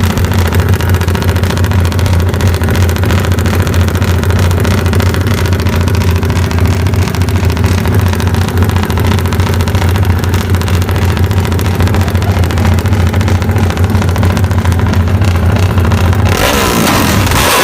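Yamaha Y15ZR motorcycle's 150 cc single-cylinder four-stroke engine running loudly at steady revs, then the revs change about a second before the end.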